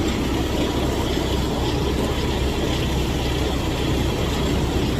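Truck's diesel engine idling with a steady low rumble during a walk-around pre-trip inspection.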